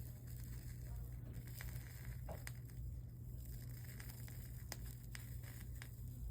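Stained-glass soldering: faint crackling and scattered clicks as the soldering iron works solder and flux along the joints, over a steady low hum.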